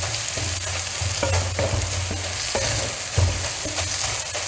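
Onions with crushed ginger and garlic sizzling in coconut oil in a kadai, with a spatula stirring and scraping the pan at irregular moments. A low hum runs underneath.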